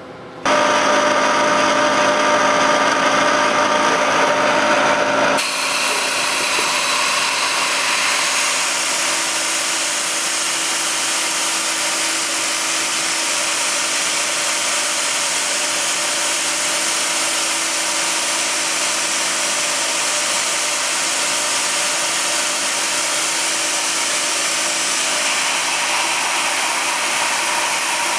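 Power tool motor starts up and runs steadily, machining out the stripped spark plug hole in a Norton cylinder head for a stepped thread insert. Its sound shifts about five seconds in and then holds steady.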